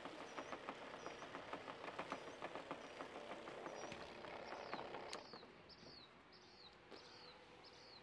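A small bird chirps over and over, a short high call about every half second or so, each call falling in pitch. Under the first half runs a rapid, irregular faint clicking that stops about five seconds in.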